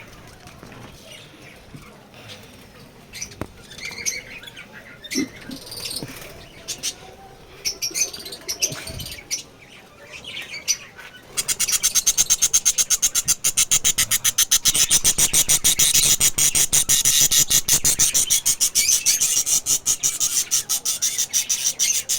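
Lovebirds chirping in scattered short calls, then from about halfway a loud, rapid, evenly pulsing chatter that goes on to the end.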